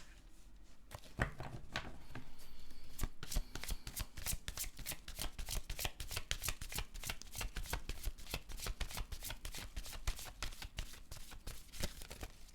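Tarot deck being shuffled by hand: a steady run of quick card slaps and flicks, several a second, starting about a second in.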